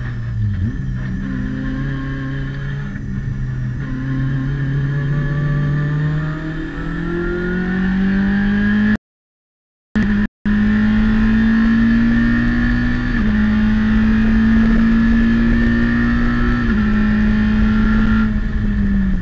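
Citroën Saxo race car's four-cylinder engine, heard from inside the cockpit under full throttle. The revs climb steadily from mid-range for about eight seconds, then hold near the top of the range. Near the end the pitch falls away as the driver lifts off to brake. The sound cuts out completely for about a second and a half partway through, a dropout in the recording.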